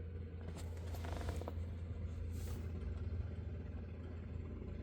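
Electric fuel pump on a 1928 Ford Model A race car running with a steady low hum, priming the carburetor and building fuel pressure before a cold start.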